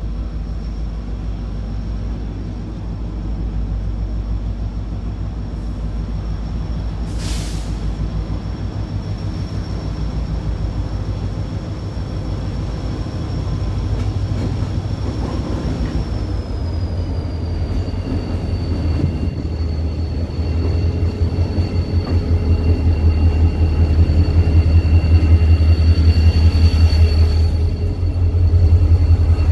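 CSX SD40-3 diesel locomotive running with a heavy, pulsing low rumble that grows louder over the second half as it moves its train past. A thin, steady high whine sits above it and drops slightly in pitch about halfway through.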